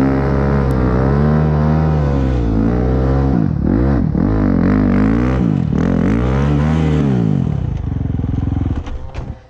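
Motocross bike engine running with the revs swinging up and down, then a run of about four quick blips of the throttle in the middle, before the sound drops away and fades near the end.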